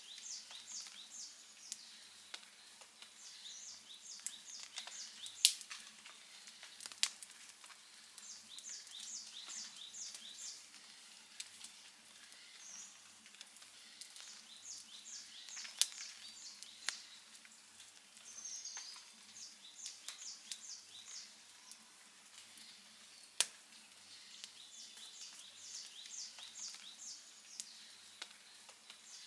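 Outdoor wood campfire crackling, with a few sharp, loud pops. Behind it, a high chirping call comes in short rapid runs every few seconds.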